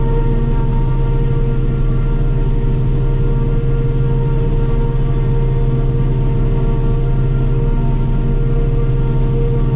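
Self-propelled forage harvester running steadily while chopping corn, heard from inside the cab: a constant drone with a steady whine on top.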